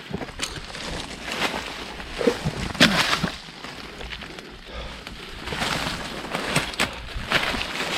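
Footsteps through dry leaves and undergrowth, with leaves and twigs rustling and crackling in irregular clicks.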